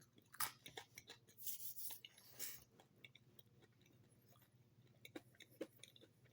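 Faint eating sounds: a few soft crunches and small mouth clicks from chewing french fries, with a near-silent stretch in the middle.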